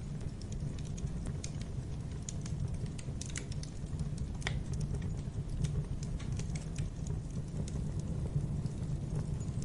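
Wood fire in a fireplace crackling, with irregular snaps and pops over a low steady rumble of the flames; one louder pop about halfway through.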